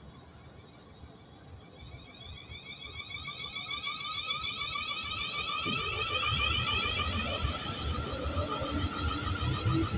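Electric train approaching: a warbling high-pitched whine that grows steadily louder, joined by a low rumble of wheels on rail from about six seconds in.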